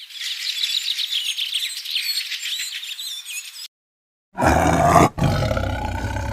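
Birds chirping and twittering rapidly for about three and a half seconds, cut off abruptly. After a short silence comes a loud, deep animal roar with a brief break about a second in.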